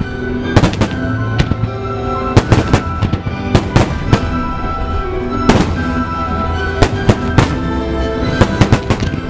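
Starmine fireworks display: a rapid, irregular run of sharp firework bursts, some in quick clusters, over music played for the show.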